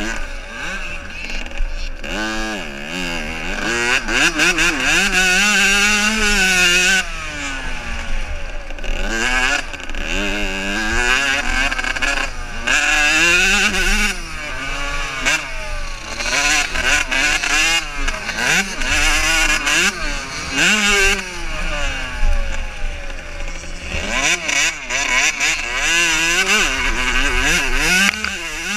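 Several motocross bikes racing, their engines revving up and falling back again and again as the riders work the throttle and shift gears, with the pitches of different bikes overlapping.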